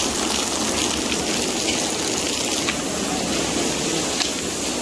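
Steady rush of flowing water, with a few faint clicks over it.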